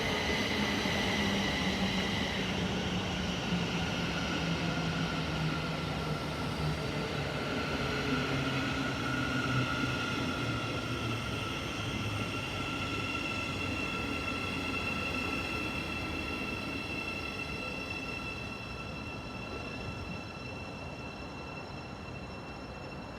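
Thameslink Class 700 electric multiple unit slowing into the platform: its motor whine falls steadily in pitch over the running noise as it brakes, then fades to a quieter hum near the end.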